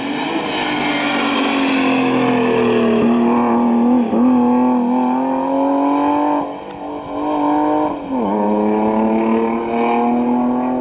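Rally car's engine under hard acceleration. The pitch climbs and drops sharply as it changes up a gear about four seconds in and again about eight seconds in.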